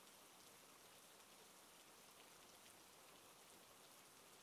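Faint, steady rainfall: an even hiss of many small drops.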